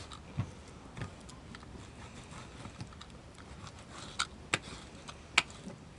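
Meat being sliced with a utility (box-cutter) knife against a cutting board: scattered light clicks and knocks, a few close together near the end.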